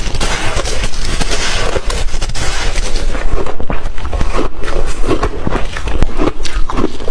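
Ice being bitten and chewed close to the microphone: a dense, loud run of irregular crunches and cracks.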